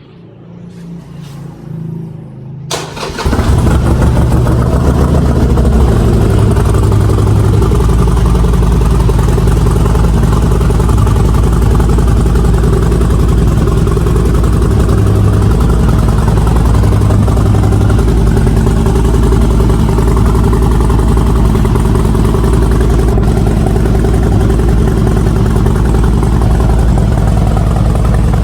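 Harley-Davidson XR1200X's air-cooled V-twin is cranked for about three seconds, catches, and then idles loudly and steadily. It exhausts through a home-made straight-through muffler: a 3-inch core with a 2-inch perforated, two-chamber insert.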